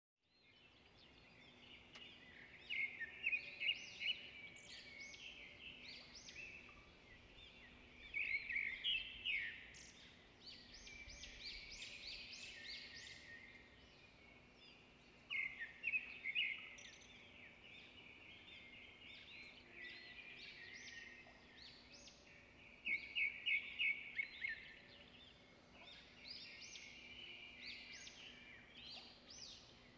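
Birds singing: phrases of rapid, high chirping notes about every six or seven seconds, with softer twittering between them, over a faint steady hum.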